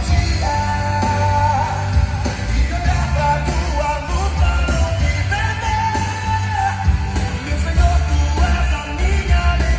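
A song with lead vocal and full band played loud through a PA system of line-array speakers and 18-inch subwoofers, with heavy, continuous bass.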